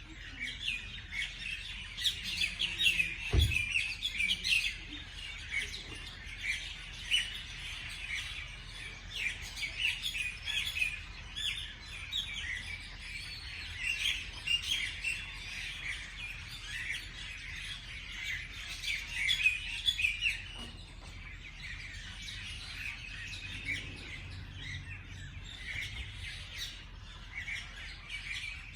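Many small birds chirping and twittering at once in a dense, continuous chorus, with a single short low thump about three and a half seconds in.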